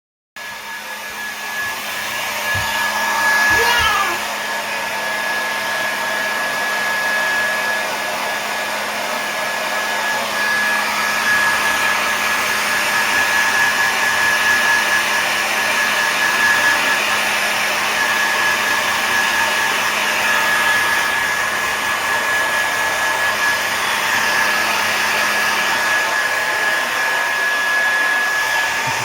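Hand-held hair dryer running steadily, an even rush of air with a high, steady whine through it.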